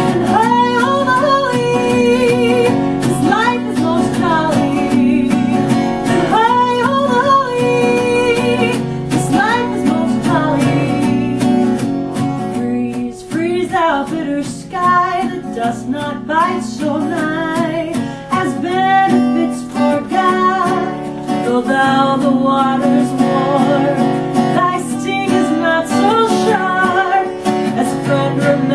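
Song with plucked acoustic guitar accompaniment and a woman singing the melody.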